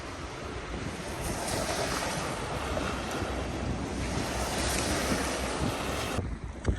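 Snowstorm wind blowing and buffeting the microphone: a steady rushing noise with a low rumble. It cuts off abruptly near the end.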